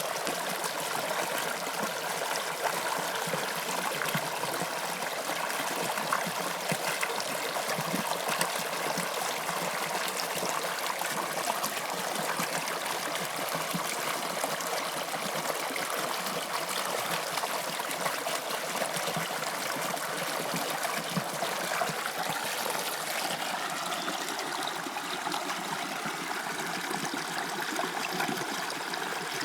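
Toronto subway Line 2 train running, a steady rushing noise of wheels and rails with no clear motor tone standing out. The noise shifts a little in character about three-quarters of the way through.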